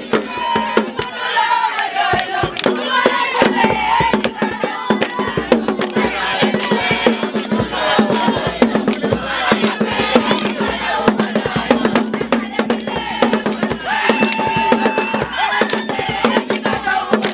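A group of voices singing and shouting together over fast, dense percussion such as hand drums and clapping.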